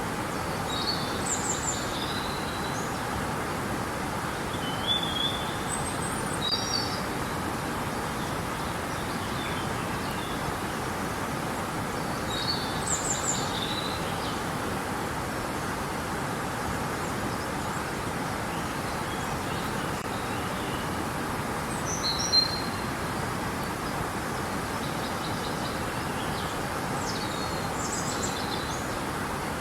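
Steady rushing of river water, with songbirds chirping and calling over it every few seconds.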